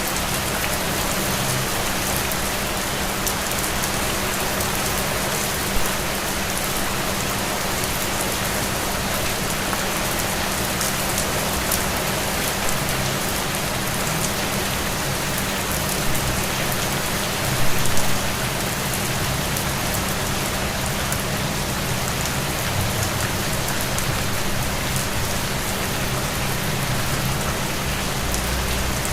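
Steady rain falling, an even hiss of many drops, with a couple of brief louder moments about six seconds in and near eighteen seconds.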